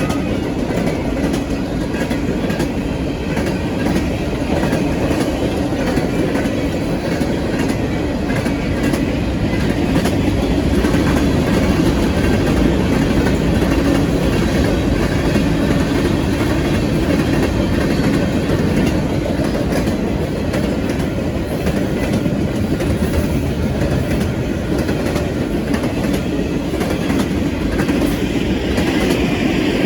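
Union Pacific manifest freight train's cars rolling steadily past, with a continuous rumble of steel wheels on rail and scattered clicks from the wheels.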